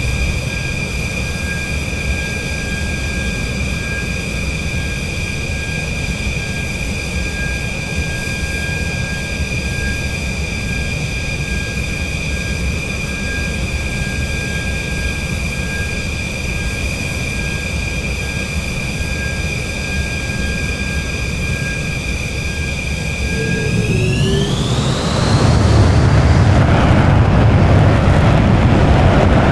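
Rafale M's jet engines running with a steady high whine, then spooling up about 24 seconds in: the whine rises in pitch and a louder roar builds as the engines go to high power.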